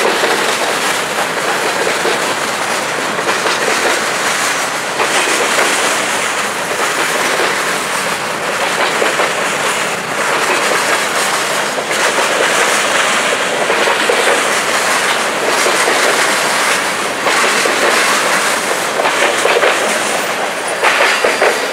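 Covered hopper cars of a Canadian Pacific grain train rolling past close by: a steady, loud rumble of steel wheels on rail with repeated wheel clicks.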